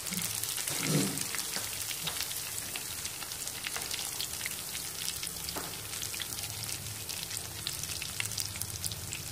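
Breaded pork cutlets sizzling and crackling steadily in hot oil in a frying pan as chopsticks turn and lift the pieces, with a brief thud about a second in.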